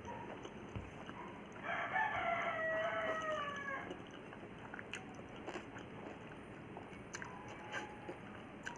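A rooster crows once, a single call of about two seconds that starts a couple of seconds in and falls slightly at the end. Around it are soft chewing and small clicks of eating.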